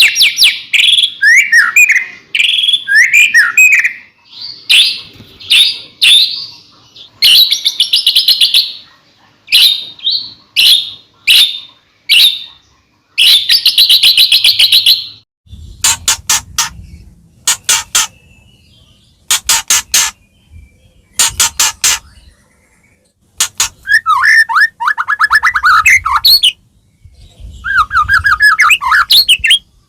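White-rumped shama singing a loud, varied song. Sliding whistles and fast trills come first, harsh rapid rattling notes in the middle, and quick falling runs of notes near the end.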